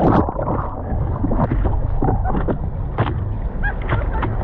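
Ocean water splashing and sloshing in the surf, with wind buffeting the microphone and several short splashes.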